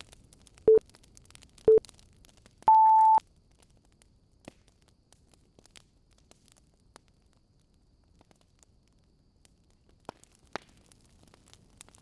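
Electronic countdown-timer beeps: two short low beeps a second apart, then one longer, higher beep about three seconds in, marking the end of the pomodoro session. After it, faint fireplace crackling with scattered pops.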